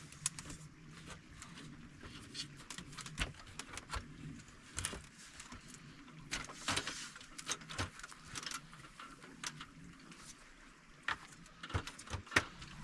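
Irregular light clicks and knocks, many in quick succession, over a faint steady background.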